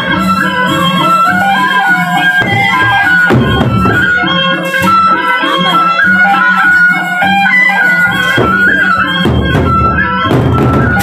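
Gendang beleq ensemble playing: a piping wind-instrument melody over large drums and a steady pulsing percussion rhythm.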